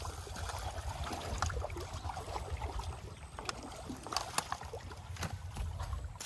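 Water sloshing and lightly splashing, with scattered small knocks and a steady low wind rumble on the microphone.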